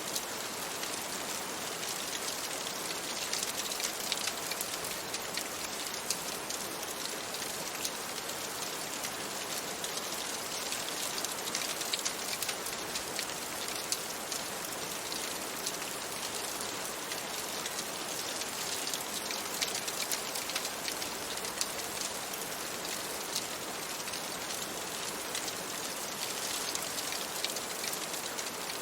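Steady rain on a window, with many small sharp ticks and crackles scattered through it, layered with a crackling wood fire.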